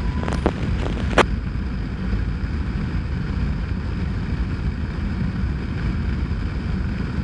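Steady low rumble of a motorcycle riding, engine and wind noise on the microphone, with a few sharp clicks in the first second or so.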